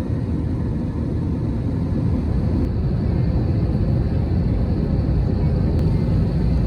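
Steady low rumble of a moving vehicle, loudest in the low end and growing slightly louder at the start.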